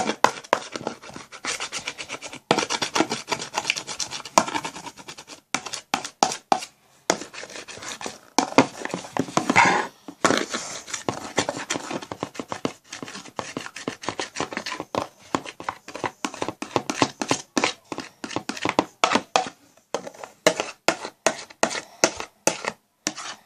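Hands kneading and squeezing sticky homemade slime: a dense, irregular run of wet clicks, crackles and small pops as the slime is pressed and pulled apart.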